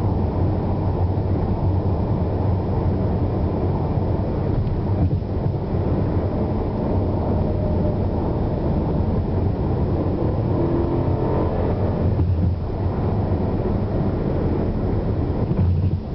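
Car engine and road noise heard from inside the cabin while accelerating hard, a steady low rumble that briefly dips three times.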